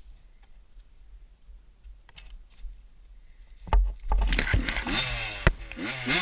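Small motorcycle engine that, after a few quiet seconds with faint clicks, comes in loudly about three and a half seconds in and revs up and down several times.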